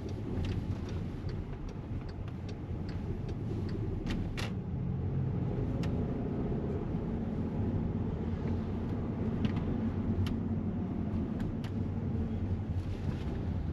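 Volkswagen Passat Variant driving, heard from inside the cabin: a steady engine and road rumble with a few light clicks.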